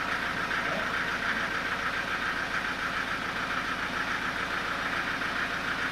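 Sawmill saw machinery running steadily, a constant mechanical drone with no change in pitch or level.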